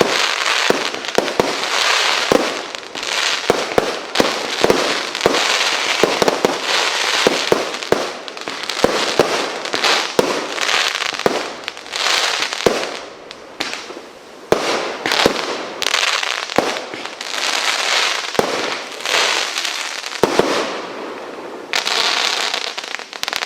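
A consumer firework display firing: many sharp bangs in quick, uneven succession over a dense, continuous crackling hiss.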